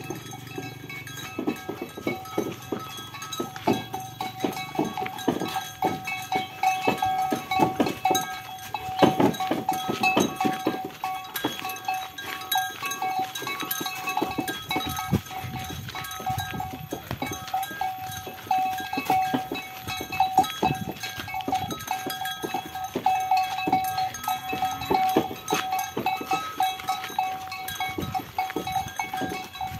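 Cattle-drawn cikar cart on the move: a bell rings with a steady tone over a constant, irregular clatter of knocks from the cart and hooves.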